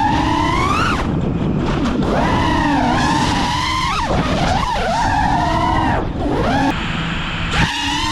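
iFlight Nazgul5 v3 5-inch FPV quadcopter's brushless motors and propellers whining, the pitch rising and falling sharply with each throttle punch and chop, heard from the camera mounted on the drone.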